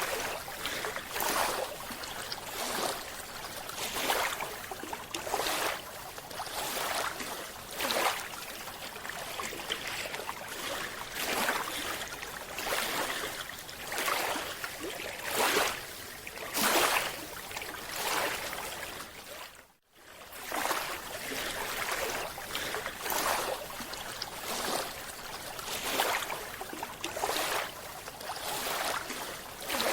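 Water sloshing and splashing in repeated surges, about one every second, with a brief dropout about two-thirds of the way through.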